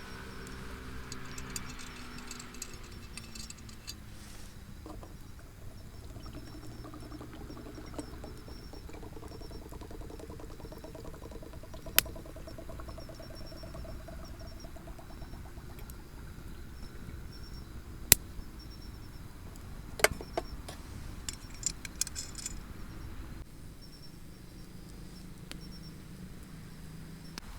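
Outdoor night ambience: insects chirping in a steady pulsed trill, over a low wavering drone, with a few sharp clicks, the loudest about halfway through and near the two-thirds mark.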